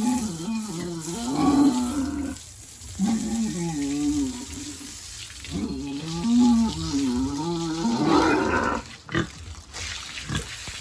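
Pigs vocalising: long, wavering grunting calls, one after another, with a short, rougher squeal-like burst about eight seconds in.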